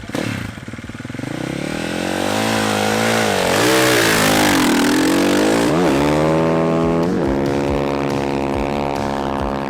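Dirtbike engine revving, its pitch dipping and climbing, with a hissing rush in the middle, then two quick upward revs and a steady high-pitched run to the end.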